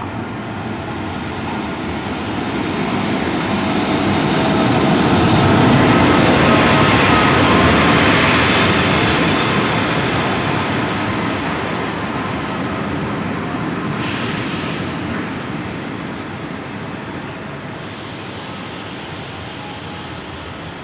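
Electric locomotive BB 25679 and its RRR push-pull coaches rolling into the platform: a rumble of wheels on rails that swells as the train reaches the microphone about six seconds in, then slowly fades as the coaches run past, slowing down.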